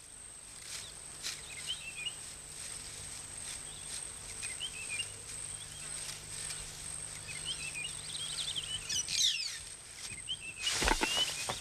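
Savanna bush ambience: small birds chirping on and off over a steady high-pitched insect drone, with a short burst of noise near the end.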